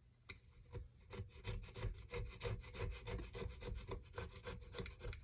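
A hand scraper scraping old gasket material off a small engine's gasket surface in quick, repeated strokes, about three or four a second, starting about a second in.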